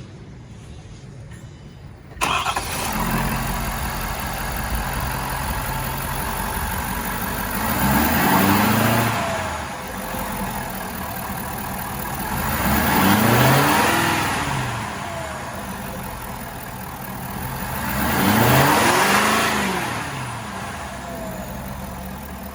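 2021 Ford F-250 pickup engine starting about two seconds in, then idling. It is revved three times, each rev rising in pitch and falling back to idle.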